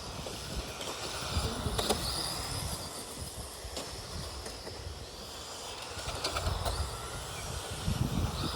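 Electric motors of radio-controlled Tamiya race trucks whining, the pitch rising and falling again and again as the trucks accelerate and brake around the track, over a low rumble.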